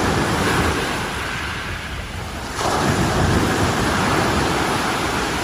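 Surf washing onto a sandy beach, a steady rush of sea noise that swells louder about two and a half seconds in.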